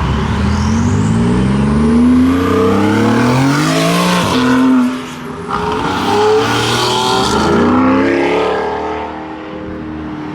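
Car engine accelerating hard as it leaves, its pitch climbing for about four seconds, dropping sharply at a shift near five seconds, then climbing again before it fades as the car pulls away.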